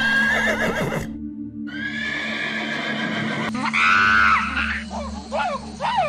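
Horse neighing: long, shrill, wavering whinnies, one after another, over steady background music. Near the end come short, quick, sweeping calls.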